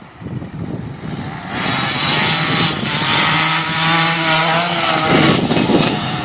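Dirt bike engine running and revving, growing loud about a second and a half in, its pitch wavering up and down, then easing off near the end.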